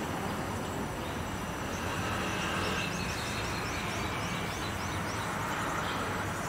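A bird chirping: a run of about nine short, quick high notes in the middle, over a steady rumbling background noise.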